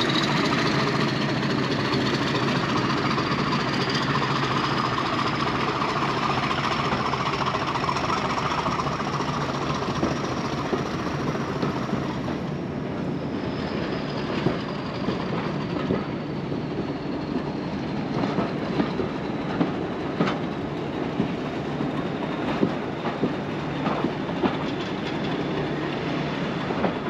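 A diesel-hauled heritage train pulling out, heard from an open carriage window. The engine runs steadily with a high whine that rises and then falls away. In the second half the wheels click over rail joints and pointwork.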